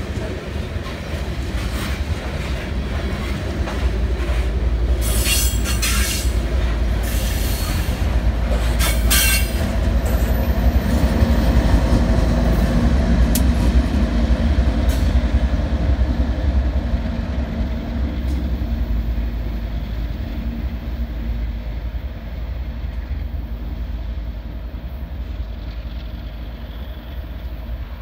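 Freight cars of a BNSF coal train rolling past with a steady rumble of wheels on rail. Sharp bursts of wheel squeal come about five to nine seconds in. The sound swells to its loudest near the middle and then fades slowly.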